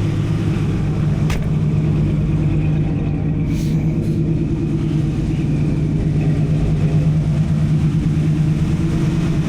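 1983 Oldsmobile Cutlass Hurst/Olds's 307 V8 idling steadily, with a single short click about a second in.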